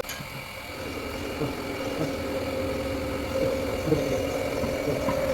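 A workshop machine's motor running with a steady hum that grows a little louder, with a few faint knocks.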